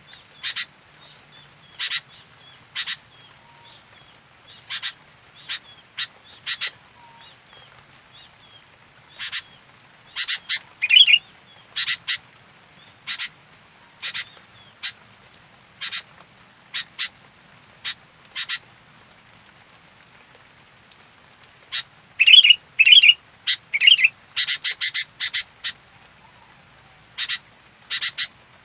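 Sooty-headed bulbul (kutilang) calling: short, sharp calls about once a second, with a few warbled notes and a quick, loud run of calls about three-quarters of the way through.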